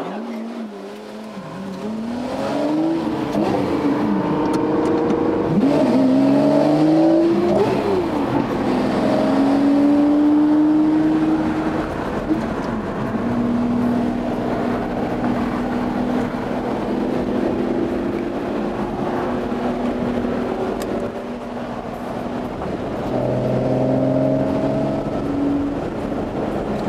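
Lamborghini Murciélago V12 with a Kreissieg aftermarket exhaust accelerating hard through the gears, its pitch climbing and dropping back at each shift, then settling to a steady cruise. It rises again briefly near the end.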